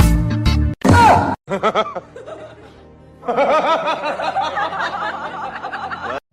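Edited soundtrack: a short drum-backed music sting, then about three seconds of rapid, overlapping laughter that cuts off suddenly near the end.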